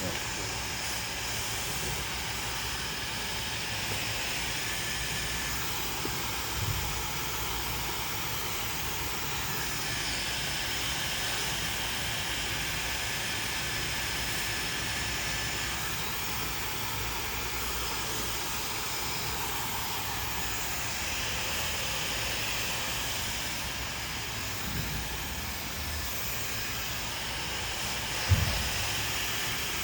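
Handheld hair dryer blowing steadily during a round-brush blow-dry, with a short knock near the end.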